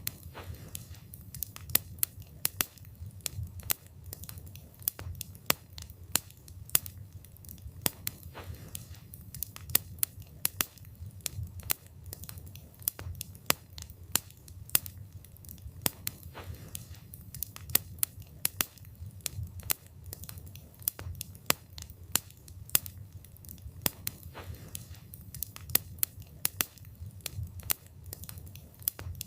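Wood fire burning, with frequent sharp, irregular crackles and pops over a low steady rumble of the flames.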